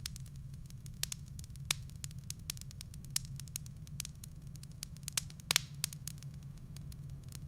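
Wood fire in a fireplace crackling, with irregular sharp pops and snaps over a steady low rumble; a louder cluster of pops comes about five and a half seconds in.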